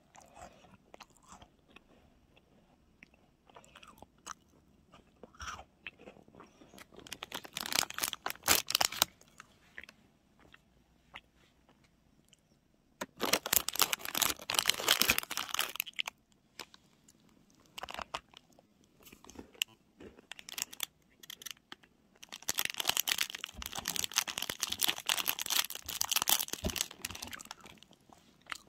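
Close-up crunching and chewing of a crunchy sweet snack, in three loud bouts of crisp crackling with quieter chewing between them.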